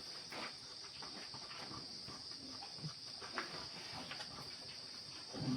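Steady high-pitched insect drone, like crickets chirring, with a few faint scattered clicks over it.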